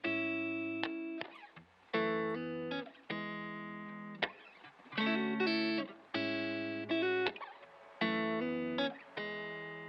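Background music: electric guitar playing a series of chords, each struck and left to ring out and fade.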